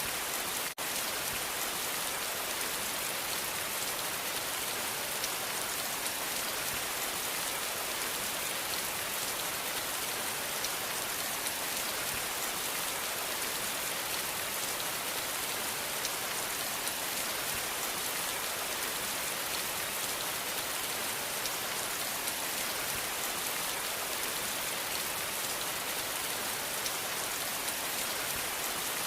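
Steady, dense rainfall: an even hiss of drops, strongest in the high end, with a brief dropout under a second in.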